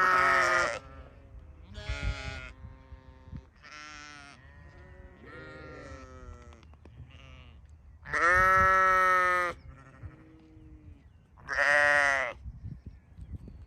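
Sheep bleating repeatedly, about seven calls. Three are loud, long bleats: one at the very start, one at about eight seconds and one near twelve seconds. Shorter, quieter bleats fall in between.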